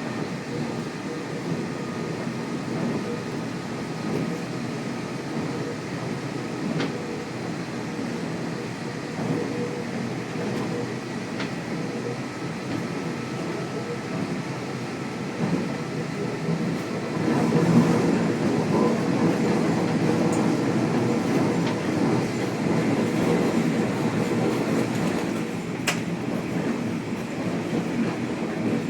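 Kashima Rinkai Railway diesel railcar running along the track, a steady mix of engine and wheel-on-rail noise with a few faint steady tones. A handful of sharp clicks are heard, and the running noise grows louder about two-thirds of the way through.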